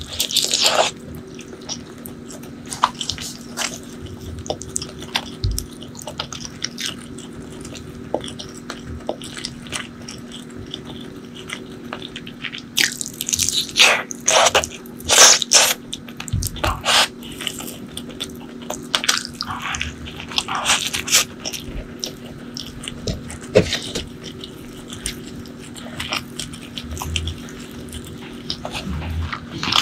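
Close-miked eating sounds: biting into and chewing a curry-coated chicken drumstick, with irregular wet clicks and smacks that come thickest about halfway through. A faint steady low hum runs underneath.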